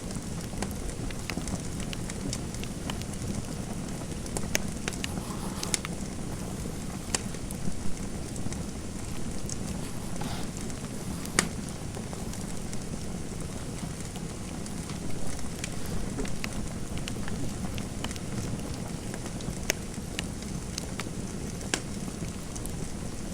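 Fireplace fire crackling: sharp pops at irregular moments over a steady low rushing hiss.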